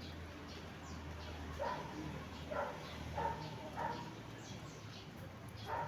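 Several short animal calls, about five in a few seconds, over a steady low hum.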